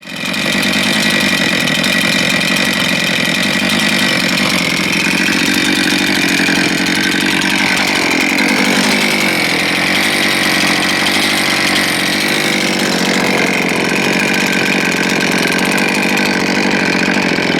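STIHL MS 441 C-M chainsaw's 71 cc two-stroke engine running steadily at high revs, its pitch dipping and wavering briefly about halfway through.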